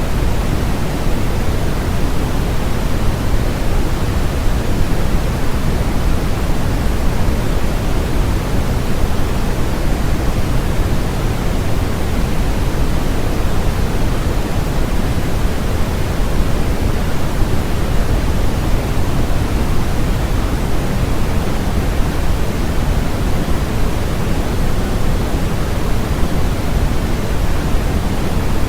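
Steady electronically generated noise, sold as white noise: an unbroken, even rushing hiss that never changes, heavier in the low end than in the highs.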